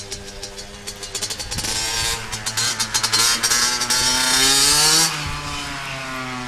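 Dirt bike engine revving up, its pitch climbing and growing louder for a few seconds, then the sound drops off suddenly about five seconds in and the pitch falls away.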